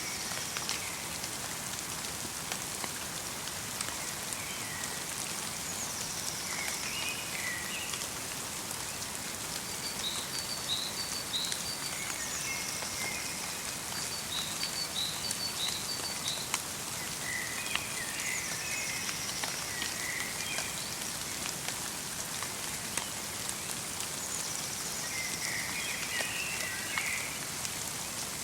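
Light rain mixed with snow falling on a forest, a steady soft hiss with fine drop ticks. Small songbirds call over it in short high phrases that come back every few seconds.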